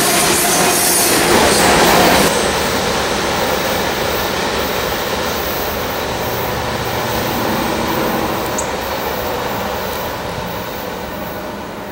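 Tail end of a Norfolk Southern freight train rolling past on the rails. The sound drops about two seconds in as the last car, a covered hopper, goes by, then fades steadily as the train moves away.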